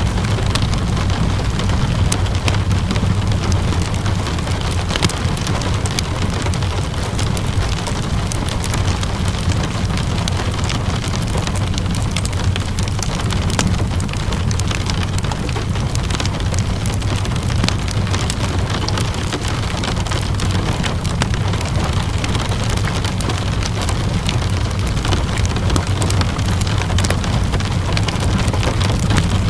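Steady rainfall with a crackling wood fire: an even hiss and low rumble, dotted with many small, sharp pops and crackles.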